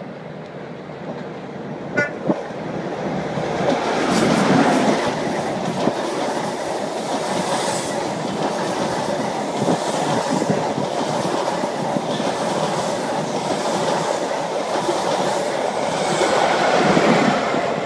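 HST (InterCity 125) sounding two short horn toots about two seconds in. The train then passes close by with loud rumbling and wheel clatter, loudest just after the toots and again near the end.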